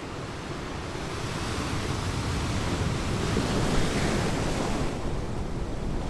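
Ocean surf on a beach: the hiss of a wave builds over a few seconds and falls away about five seconds in, over a steady low rumble of surf.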